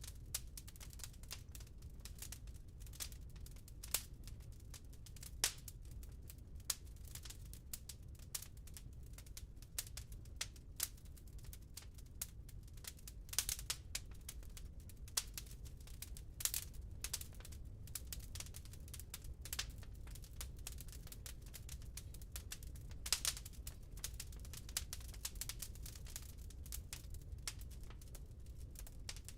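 Burning wood crackling in a fireplace: irregular sharp pops and snaps, several a second and of uneven loudness, over a low steady rumble.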